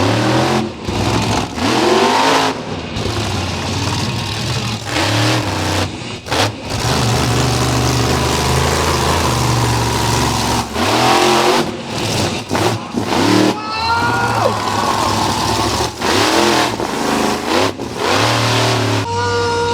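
Monster truck engine revving hard, the throttle opened and lifted again and again, with brief cut-outs and rising and falling pitch.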